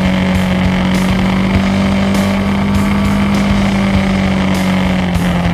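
Motorcycle engine running at a steady cruising speed, its pitch holding even and easing down slightly near the end.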